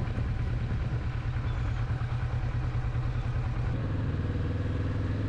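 Motorcycle engine idling with a steady low pulsing rumble; about three and a half seconds in, a steadier pitched engine note joins it.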